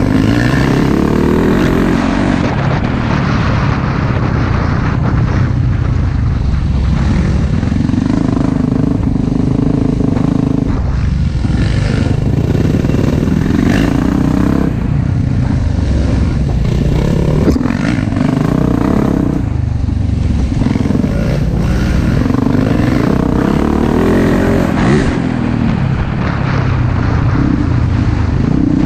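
Single-cylinder four-stroke dirt bike engine under load, its note climbing and dropping every few seconds as the throttle is worked and the bike shifts through gears.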